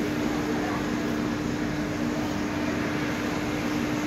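Indian passenger express train at a station platform, giving off a steady hum with one constant droning tone over an even rumble.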